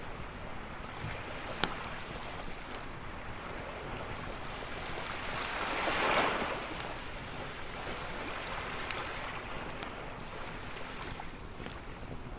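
Waves washing onto a shore, with one wave swelling and breaking about halfway through. A few sharp pops from a crackling campfire sound over it.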